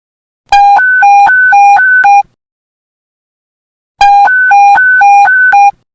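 Police panic button alert tone: an electronic hi-lo beep alternating quickly between a low and a higher pitch, seven notes at about four a second. It sounds twice, with a silent gap of nearly two seconds between.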